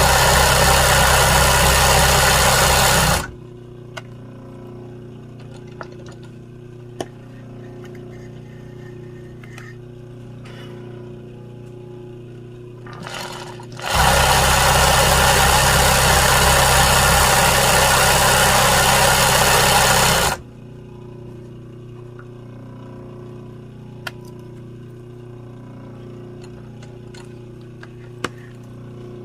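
Embroidery sewing machine stitching in two runs, about three seconds at the start and about six seconds from the middle, with a steady motor hum and a few small clicks in between.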